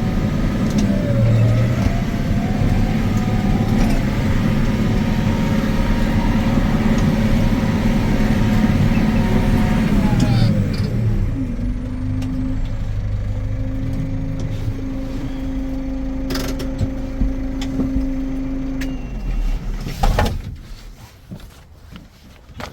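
McCormick CX105 tractor's diesel engine running at working speed, then throttled back to a steady idle about ten seconds in. Near the end it is shut off, with a knock as it stops.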